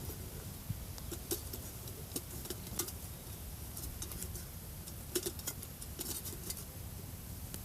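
Scattered, irregular sharp clicks and crackles over a steady low rumble.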